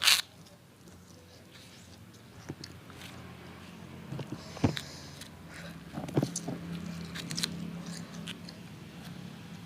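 Close-up mouth sounds of someone eating: chewing with scattered clicks and smacks, the loudest a sharp click right at the start and two more about four and a half and six seconds in.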